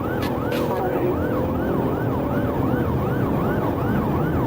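Police car siren in a fast yelp, sweeping up and down about three times a second, over engine and road noise.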